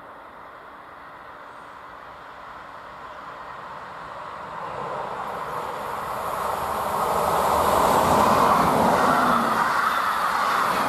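A train approaching, its running noise growing steadily louder until about eight seconds in, then staying loud as it comes close.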